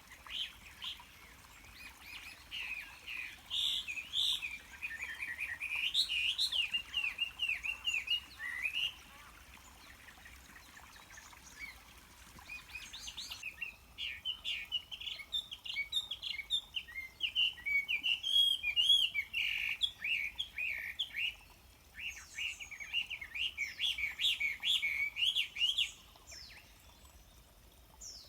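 Small birds chirping and twittering in long runs of quick, high chirps, with a lull between the two main runs, over a faint hiss of flowing river water.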